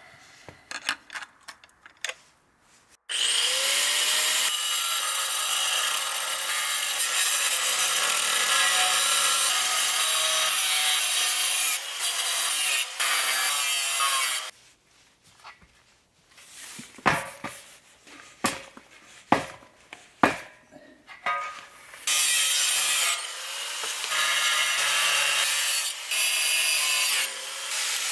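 Angle grinder with a cutoff wheel cutting away the bottom of a compressor belt cover. It spins up about three seconds in and cuts steadily for about nine seconds, then briefly once more. A string of sharp knocks and clanks follows, then a second long cut, and the wheel winds down near the end.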